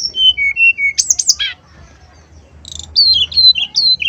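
Brown-chested jungle flycatcher singing: two phrases of clear whistled notes mixed with quick downward-sweeping notes, with a pause of about a second between them.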